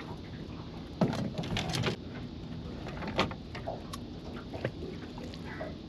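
Scattered knocks and clatter of gear being handled in a fishing boat, with a burst of clattering about a second in and single sharp knocks after it, over a steady hiss of wind and water.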